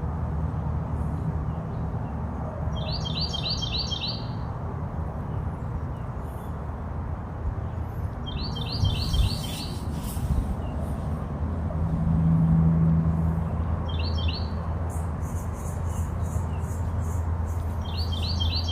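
A songbird repeating a short phrase of quick high chirps, four times a few seconds apart, over a steady low rumble.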